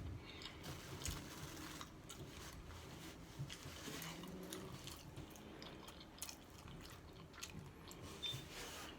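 A person chewing a mouthful of taco close to the microphone: faint, irregular wet mouth clicks and smacks.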